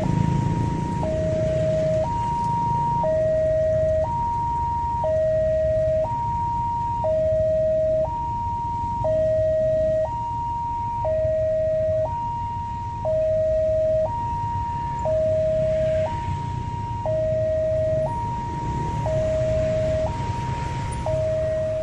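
Railway level-crossing alarm sounding: an electronic two-tone warning that alternates high and low, each tone about a second long, over a steady low rumble.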